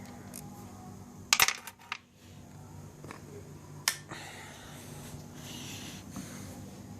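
Small metal objects clinking, as in hand tools and loose parts being handled during scooter engine work: a quick cluster of sharp clinks about a second and a half in, then one more clink about four seconds in, over a steady low hum.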